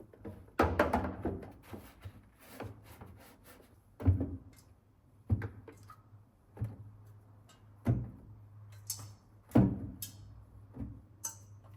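Items being set down or handled one after another, making a series of thunks and light knocks about once a second, over a low steady hum.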